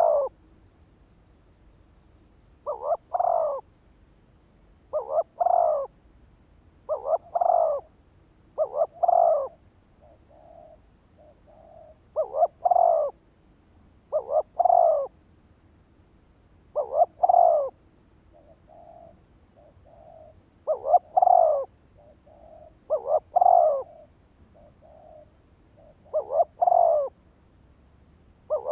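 Spotted dove cooing: a short call phrase repeated about every two seconds, with softer single coos between some of the phrases.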